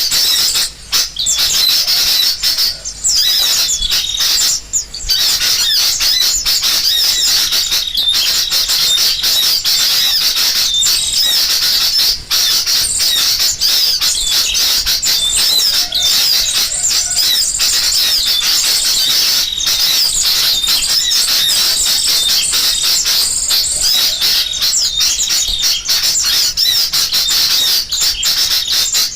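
Bird-lure recording of sooty-headed bulbuls (kutilang) calling noisily, mixed with the calls of assorted small birds: a dense, unbroken chatter of high chirps and squawks.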